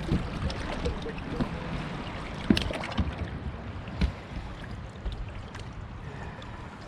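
Strong wind rumbling on the microphone, with a few sharp knocks, the loudest about two and a half seconds in, as a hooked largemouth bass is being landed.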